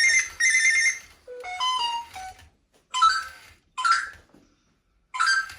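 Animatronic robot parrot playing a string of short electronic sounds through its speaker: a beeping tone, then a run of notes stepping down in pitch, then a few short rising whistle-like calls with gaps between them.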